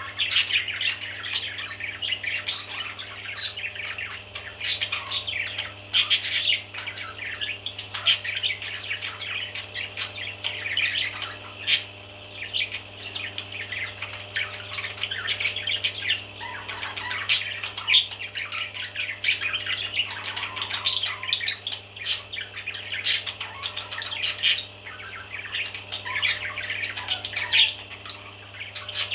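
Many baby parrots chirping and squawking at once, continuous overlapping calls with sharp clicks among them, over a steady low hum.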